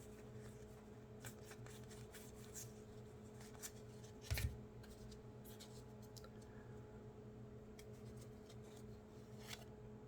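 Trading cards being flipped and slid over one another by hand, faint scattered clicks and rustles, with one louder tap about four and a half seconds in.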